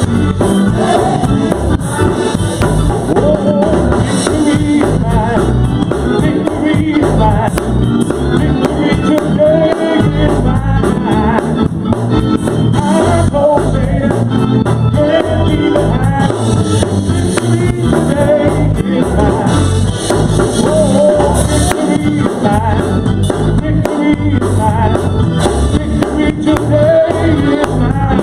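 Gospel praise music from a live church band, with a steady beat and a strong bass line under singing.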